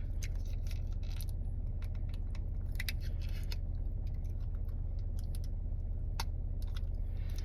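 Scattered light clicks and taps of a utensil and a plastic takeout bowl as food is eaten, over a steady low hum.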